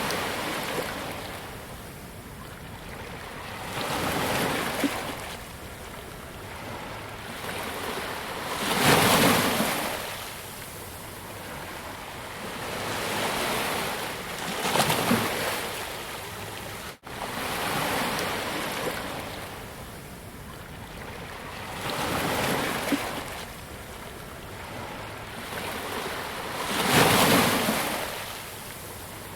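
Ocean waves breaking on a beach, rising and falling in repeated washes every few seconds. The loudest breakers come about a third of the way in and near the end, and the sound briefly cuts out about halfway through.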